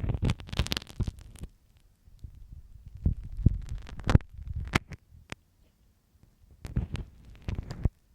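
Dressmaker's pin scraping and tapping inside a microphone's ear canal, close up. It comes in irregular strokes of crackly scratching and sharp clicks with a muffled low rumble, with short pauses between them.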